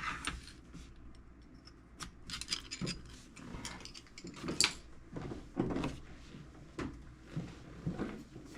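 Scattered light knocks and clicks at irregular moments, from things being handled and set down around a metal tool box.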